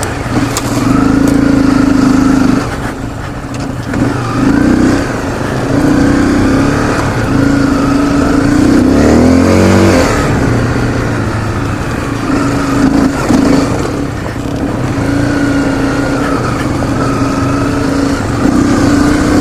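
Honda CRF250L's single-cylinder four-stroke engine under way on a dirt trail, revs rising and falling as the throttle is worked. About halfway through the engine note sags and drops, then picks back up.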